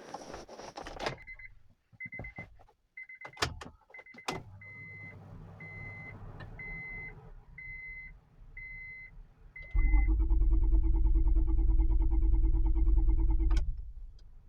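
A car's warning chime beeps about twice a second, with a couple of knocks, then the starter cranks for about four seconds and stops without the engine firing: the car won't start.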